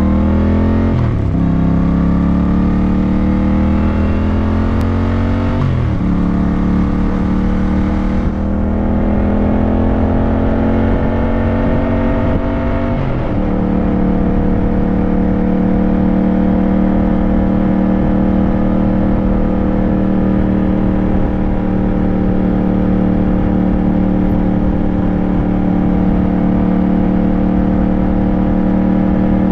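Motorcycle engine accelerating through the gears, with the pitch climbing and then dropping at each of three upshifts about a second, six seconds and thirteen seconds in. After the last shift it settles to a steady cruise.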